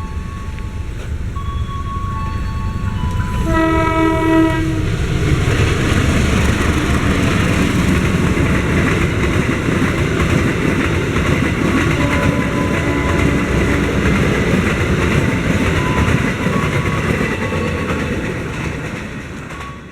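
A train sounds its horn once for about a second and a half, then passes close by with a loud steady rumble of wheels and engine that fades away near the end.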